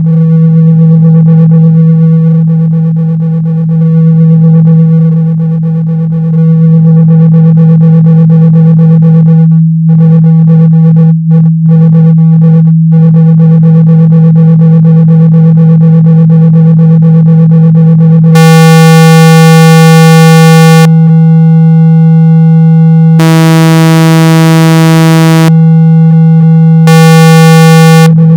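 Speaker-cleaning tone: a loud, steady low hum at about 162 Hz, played to vibrate a speaker cone and push water and dust out, with fainter higher tones over it. In the last third, harsh buzzy tones switch on and off three times, each lasting one to two and a half seconds.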